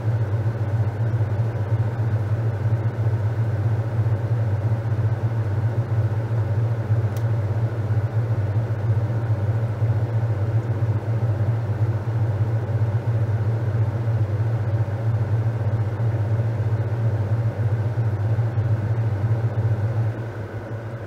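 Top-loading washing machine running through its wash, its motor giving a steady low hum with churning noise above it. The sound drops off sharply near the end.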